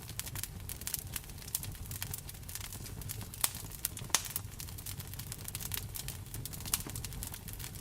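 Wood fire crackling in a fireplace: a dense run of irregular small crackles with a few louder pops, about three and a half, four and almost seven seconds in, over a steady low rumble.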